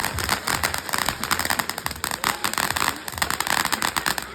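Fireworks crackling: a rapid, continuous string of small sharp pops, many per second.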